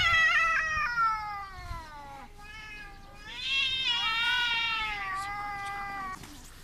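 Cats yowling in two long drawn-out calls, the first sliding down in pitch, the second starting about three seconds in: the warning caterwaul of two cats squaring off for a fight.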